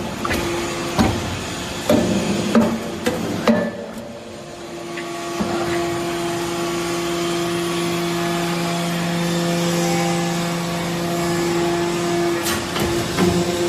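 Hydraulic metal shavings baler at work: sharp metallic clanks and knocks for the first few seconds, then a steady machine hum from its hydraulic power unit, with a few more knocks near the end.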